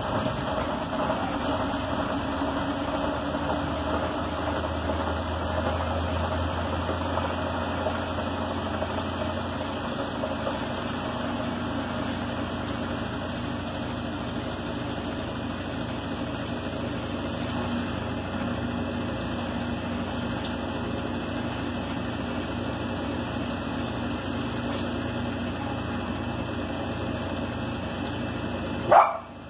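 An engine running steadily, with a short loud noise just before the end, after which the sound drops away.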